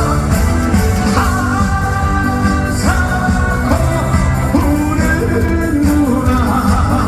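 Live trot song played loud by a band, with singing over it, heard from the concert hall.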